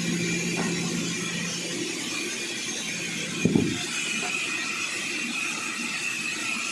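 Sawmill saw running, with a steady high whine over a low hum. About three and a half seconds in there is a short thump, and the low hum drops away after it.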